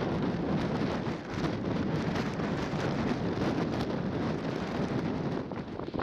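Strong typhoon wind buffeting the microphone in steady gusts, over the noise of heavy surf.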